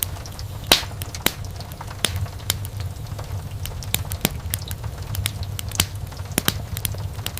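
Wood fire burning in a fireplace: a steady low rumble of flames with irregular sharp crackles and the odd louder pop of burning logs.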